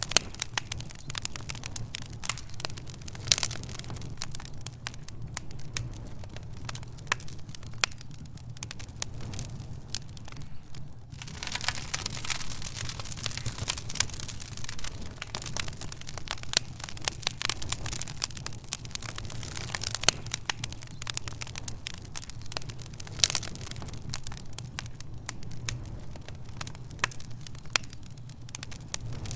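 Wood fire in a fireplace crackling, with dense irregular snaps and a few louder pops over a steady low hum.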